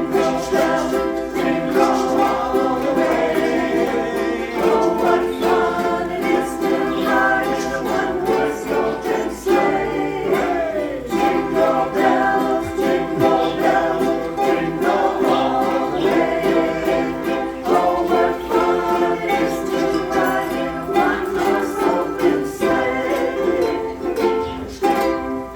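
A group of ukuleles strumming chords in a steady rhythm, with voices singing along.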